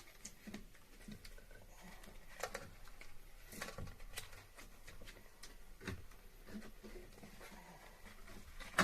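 Scattered light clicks, taps and rustling of hand work on air-conditioner piping, with a sharper knock near the end.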